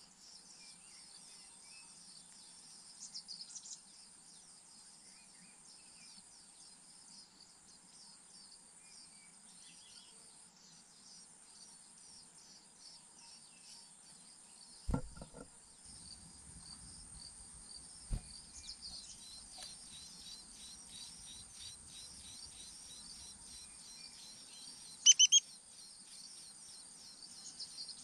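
Outdoor ambience: a steady, high insect chorus with fast ticking, a few short bird chirps, and a loud pair of sharp chirps near the end. Two dull low thumps come midway.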